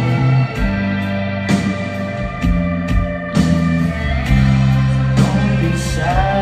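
Rock band playing live between vocal lines: guitar, bass and drums, with bass notes changing about every second and regular drum hits.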